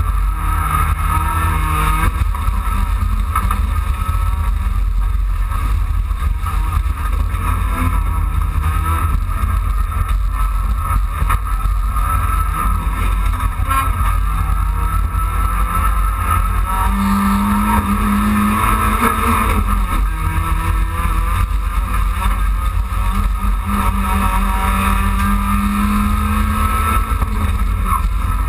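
Dacia Logan race car's engine heard from inside the stripped, caged cabin, running hard under racing load, its pitch rising and dropping repeatedly with gear changes and lifts, over a heavy road and cabin rumble.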